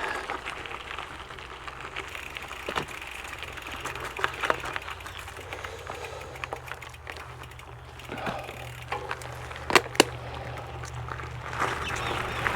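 Trek Checkpoint SL5 gravel bike rolling along a gravel trail: steady tyre rumble with scattered small clicks and rattles, and two sharp knocks close together near the end.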